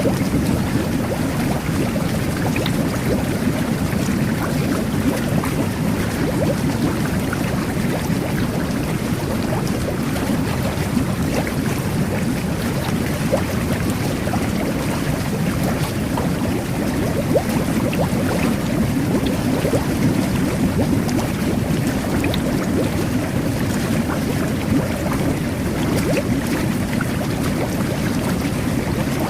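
Whirlpool jet bath running steadily: water churning and air bubbles gurgling and popping at the surface.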